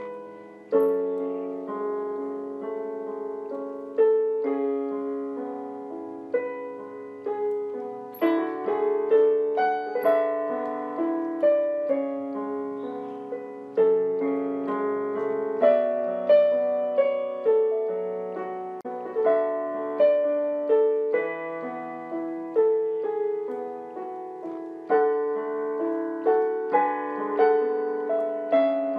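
Background piano music: a slow, gentle melody of single struck notes and chords, each one fading away after it is played.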